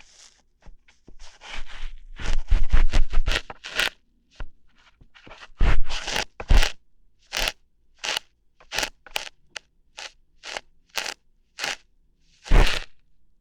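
Ear hair being plucked close to the microphone for ASMR: a run of short, crunchy snapping and scraping strokes. A quick cluster comes early, then single plucks follow about once or twice a second.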